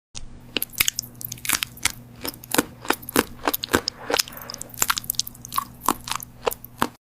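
Irregular crisp crunching clicks, several a second, over a faint steady low hum.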